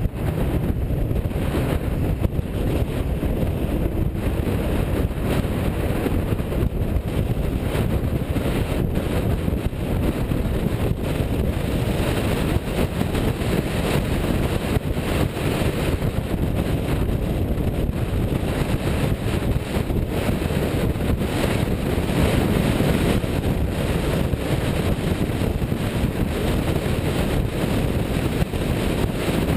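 A car's steady running rumble with wind buffeting the microphone throughout.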